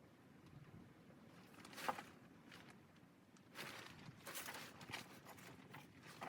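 Faint handling sounds: a single sharp knock about two seconds in, then a run of irregular rustling, crunching noises through the second half.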